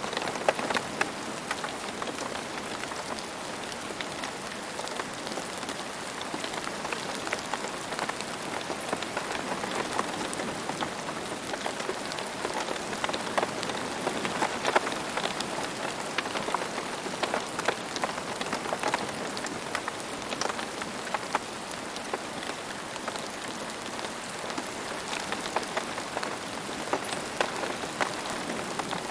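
Steady rain falling on a surface, a continuous hiss dotted with many distinct drop impacts.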